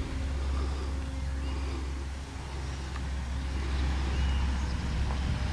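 Faint steady drone of a scratch-built R/C model plane's motor flying high overhead, under a strong, steady low rumble.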